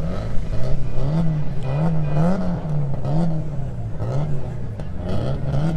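A car engine being revved up and down repeatedly, its pitch rising and falling about once a second.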